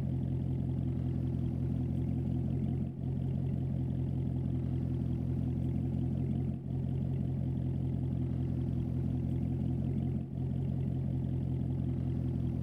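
Chevrolet C7 Corvette V8 idling steadily through a straight catback exhaust, a deep even burble, with three brief dips in level.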